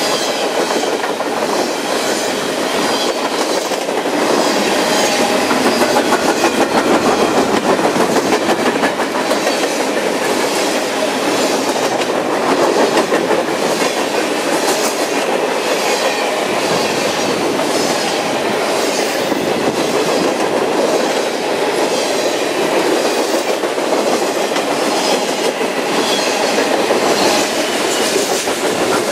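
Freight cars of a passing freight train (reefers, tank cars, covered hoppers) rolling by at speed. A steady rumble and rattle is broken by a regular clickety-clack of steel wheels over rail joints.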